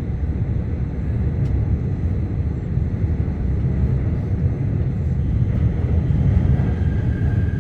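Seoul Metro Line 4 subway train running, a steady low rumble. A faint high whine comes in near the end.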